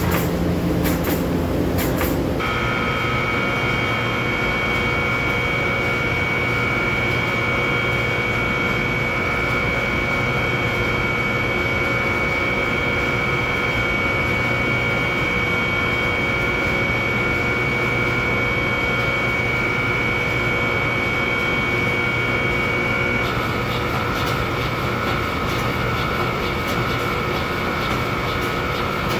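A machine running steadily with a high whine over a rumble. The whine sets in about two seconds in, after some clicking, and its highest part drops away near the end.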